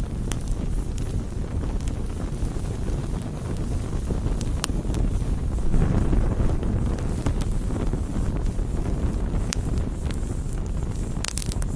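Wood campfire burning: a steady low rushing of the flames with scattered sharp crackles and pops, swelling briefly about six seconds in.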